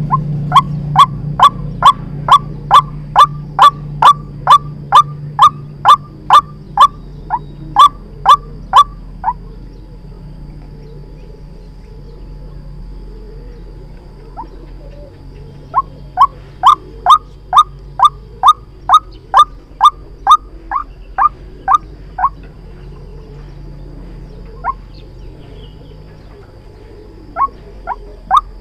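White-breasted waterhen calling, as a trapping lure: a long run of sharp, evenly spaced notes about two a second, a pause of several seconds, a second run, then a few single notes near the end.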